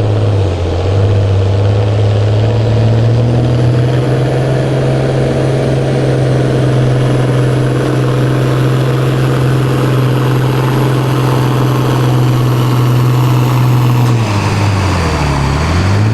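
A pulling tractor's engine held at high revs under full load, with a faint high whine above it. Near the end the revs drop sharply and climb back up.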